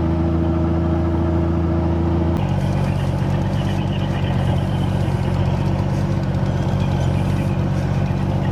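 Motorhome engine running steadily as it moves slowly. The engine note changes abruptly about two and a half seconds in.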